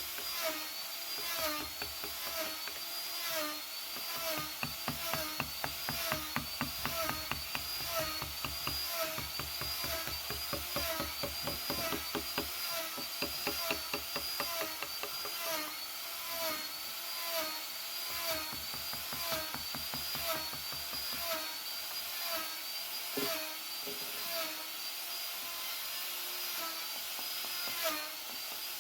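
High-pitched electric rotary carving tool cutting into wood. Its pitch wavers up and down over and over, with a fast regular tapping under it.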